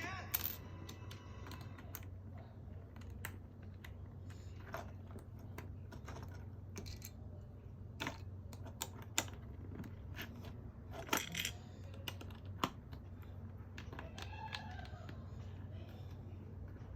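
LEGO plastic pieces handled and clicked together, giving scattered sharp clicks and light clinks at irregular intervals over a steady low hum.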